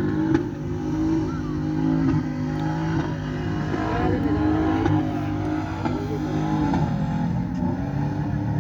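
Car engine running loudly at a fairly steady pitch.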